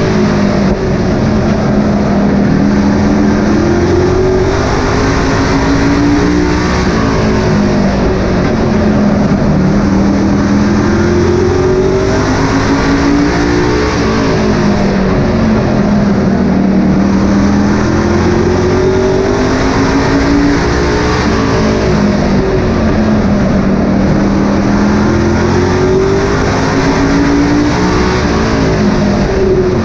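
Super Pro race trucks running in a pack on a short oval. Their engines climb in pitch as they accelerate, then drop as they lift off, in a cycle that repeats about every eight seconds over a constant roar.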